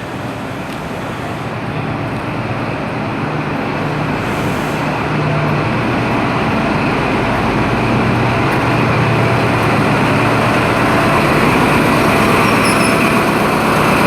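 Class 43 HST diesel power car running as the train draws slowly into the platform: a steady low engine hum under rumbling train noise, growing louder throughout.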